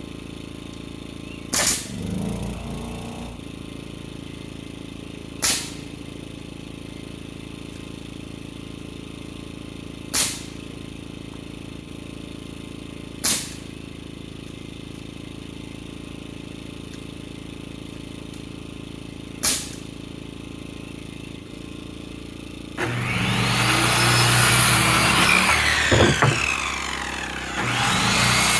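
Steady small-engine hum with five sharp single nail-gun shots a few seconds apart while roof framing is fastened. About 23 seconds in, a circular saw takes over loudly, cutting lumber twice, its whine rising and falling with each cut.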